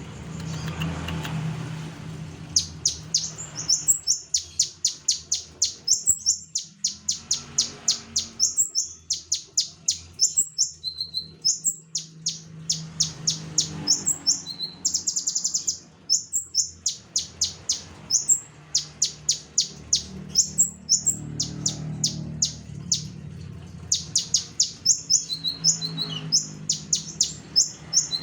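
Konin (kolibri ninja sunbird), a caged songbird, singing vigorously in long runs of sharp, high notes, several a second, broken by short pauses. A low steady hum lies underneath.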